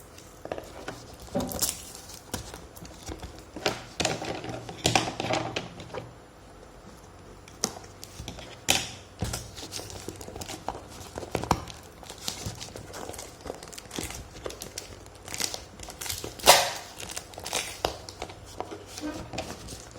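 A parcel's wrapping being pulled and torn off by hand: irregular crinkling and rustling with short sharp tearing crackles, loudest about three-quarters of the way through.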